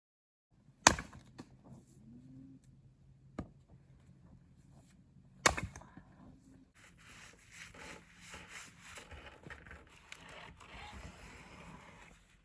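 Two sharp, loud knocks about four and a half seconds apart, with a fainter knock between them, then irregular rustling and scraping.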